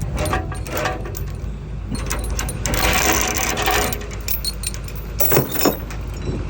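Steel lashing chain clinking and rattling as it is fed through an excavator's bucket pin, with a denser run of rattling about halfway through.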